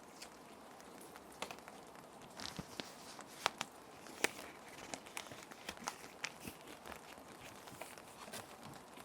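Plastic sheet protectors being handled, with sheets slid into them, giving irregular crinkles and sharp plastic ticks, the loudest two close together about halfway through. Under them runs a steady hiss of ambient rain.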